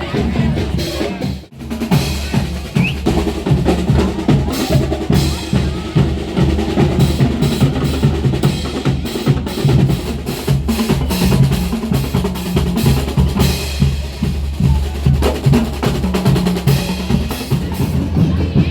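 Marching band drums, snare and bass drums, playing a steady rolling beat with sustained low notes beneath, cutting out briefly about a second and a half in.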